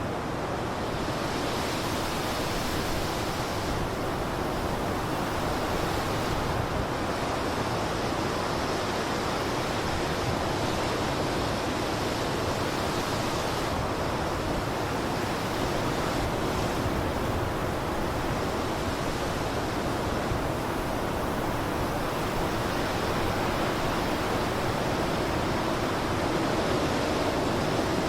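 Blizzard wind blowing in a steady rush, the higher hiss swelling and easing a few times as gusts come and go.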